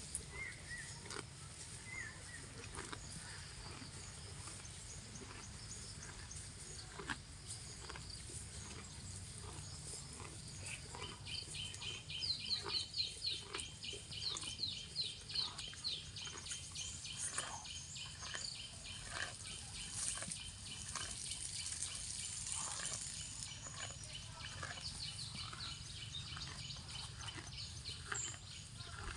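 A cow grazing: short tearing and crunching sounds as it rips grass and chews, repeated roughly once or twice a second, over a low steady outdoor rumble. A high, rapidly pulsing trill sounds through the middle.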